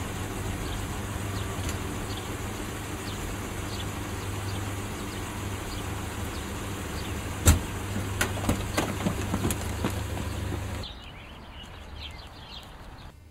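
Idling car engine, a steady low hum, with one sharp loud knock about seven and a half seconds in, followed by a string of lighter knocks and thumps. The sound then drops suddenly to a quieter background.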